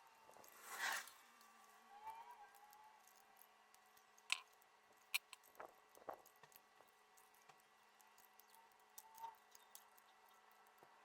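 Quiet handling noises: a short hiss about a second in, then a few scattered light clicks and taps.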